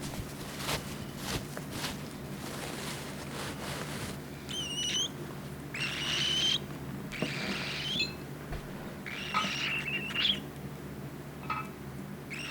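Baby cockatiel chick's food-begging calls: about five short, raspy chirps in the second half, after a few seconds of faint clicks and rustling.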